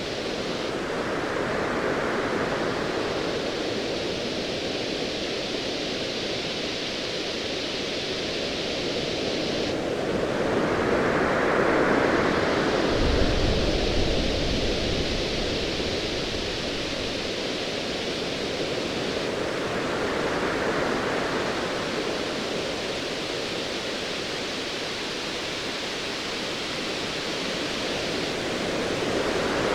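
Ocean waves breaking in slow swells about every ten seconds over a steady hiss, with a brief low rumble of distant thunder about thirteen seconds in.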